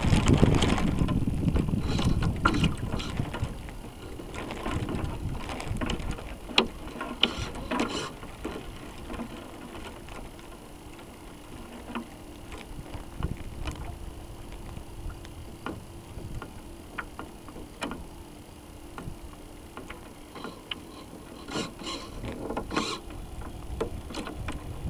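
Water rushing and splashing along the hull of a radio-controlled sailboat, heard through its onboard camera, with wind on the microphone and scattered small clicks and knocks. Loudest in the first few seconds, then quieter.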